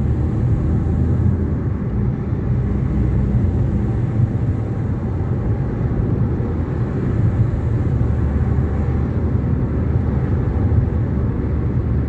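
Steady low rumble of a convoy of tractors and other vehicles moving along a highway, with no single engine standing out.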